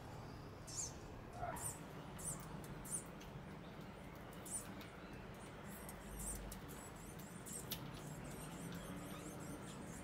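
Small birds giving short, high chirps, scattered irregularly about once a second, over a faint steady low hum.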